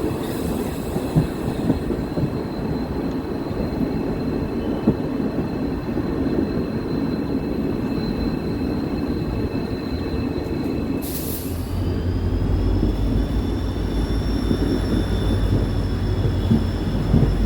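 Diesel-hauled passenger train running on the rails, with a steady rumble and a thin high whine. About eleven seconds in comes a short hiss, then the whine rises in pitch and a deep steady hum sets in.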